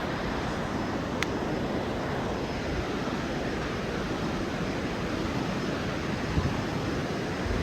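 A steady rushing noise with a low rumble underneath, from wind on the microphone or rushing water; a faint click about a second in.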